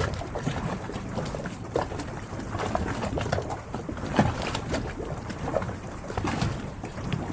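Harbour water lapping and splashing irregularly against the hulls of moored yachts, many small splashes over a low wash.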